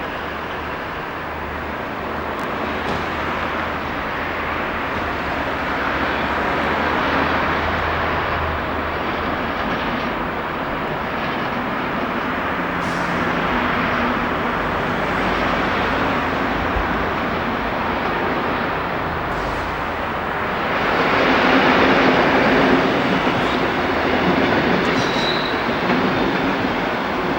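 Diesel train running on the rails, with wheel-and-rail noise and a steady low engine note. It grows louder about two-thirds of the way through, and there is a brief high wheel squeal near the end.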